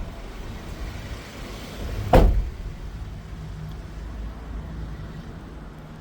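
A door slams shut once, sharply, about two seconds in, over a low steady rumble.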